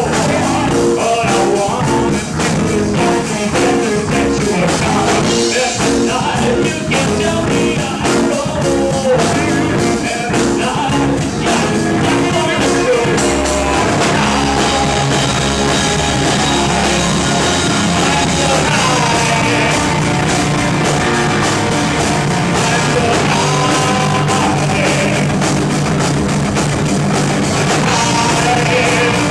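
Rock band playing live, with a drum kit and guitars.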